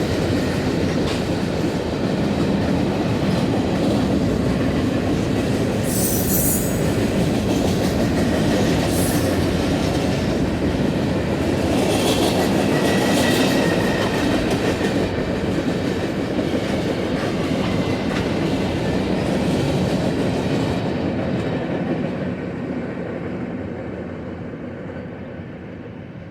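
Freight cars of a long CSX manifest train rolling past, a steady rumble of wheels on rail with a few short, high wheel squeals. The sound fades away over the last few seconds as the end of the train moves off.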